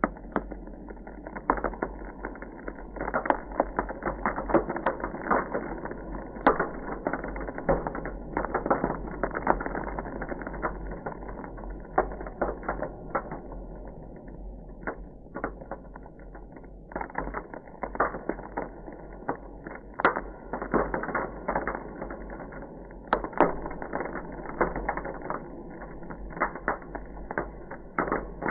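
Ice crackling: a dense, irregular stream of small crackles with louder sharp cracks scattered through, over a steady low hum.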